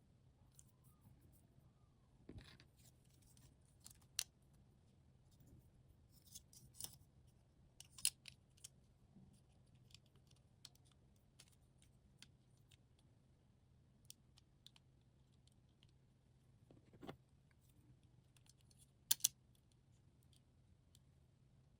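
Sparse small clicks, taps and snips from hand work on small model parts, over a low steady hum. The loudest click comes about eight seconds in, and a quick pair of clicks near the end.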